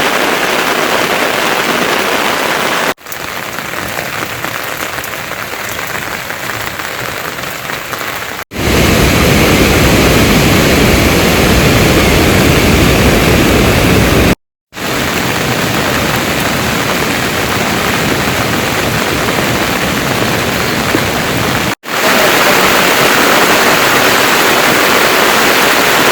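Heavy rain falling steadily, in several short clips cut one after another. In the loudest clip, from about a third of the way in to the middle, the rain sounds heavier and deeper.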